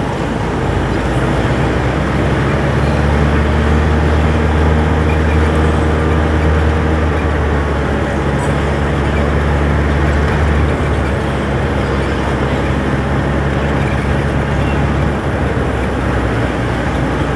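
Truck engine running steadily while driving in city traffic: a low, even drone with road noise, its pitch shifting slightly a couple of times.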